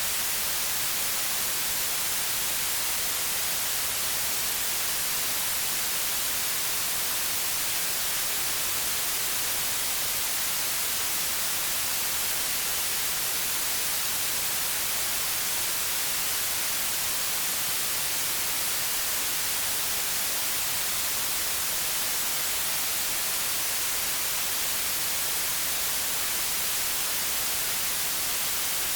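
Steady white noise: an even, unbroken hiss, brightest in the highs, with no change in level.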